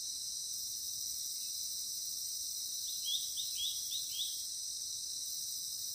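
Steady high-pitched drone of insects, with a quick run of about six small-bird chirps about three seconds in.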